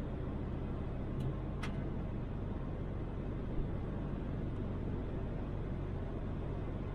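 Toyota Land Cruiser 80 driving at a steady pace: a constant engine drone and road noise, with two brief clicks a little over a second in.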